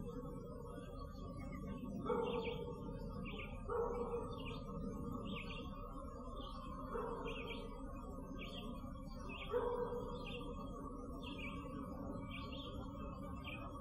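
A songbird chirping over and over, a little more than one short note a second, over a steady low rumble of background noise. Four louder, lower-pitched calls break in a few seconds apart.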